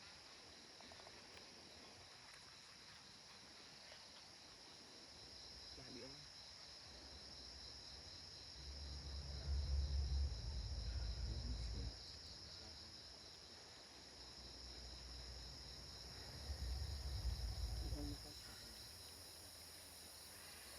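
Steady high-pitched insect chorus, with two stretches of deep low rumble that are the loudest part: one from about nine to twelve seconds in, and a shorter one near the end.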